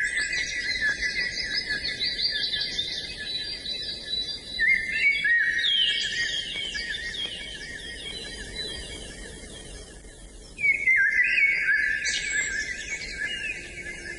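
Several songbirds singing at once, overlapping runs of quick chirping and trilling notes, with a louder burst of song starting about ten and a half seconds in.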